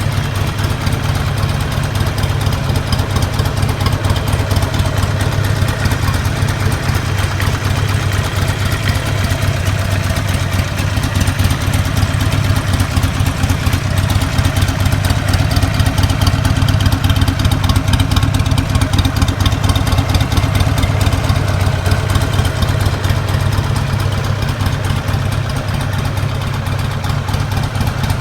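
Buell XB12SS's air-cooled 1203 cc V-twin idling steadily through its exhaust, a rapid even pulsing.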